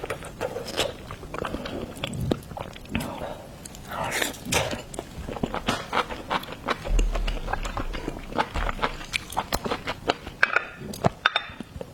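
A person biting and chewing seafood close to the microphone, with a continuous run of small mouth clicks.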